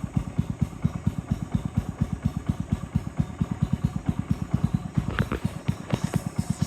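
Boat engine chugging steadily, a low, even thump at about six or seven beats a second. A few brief higher-pitched sounds cut in around five to six seconds in.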